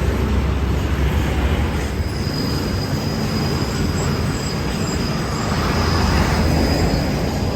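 A train rolling past with a steady rumble of wheels on rail. About two seconds in, a thin high steady whine joins it, likely a wheel squealing against the rail.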